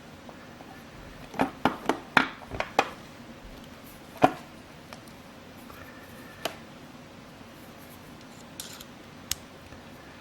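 Sharp metal clicks of a Victorinox Swisschamp XLT Swiss Army knife's tools being handled: a quick run of about six clicks, then one loud click and a few scattered single ones.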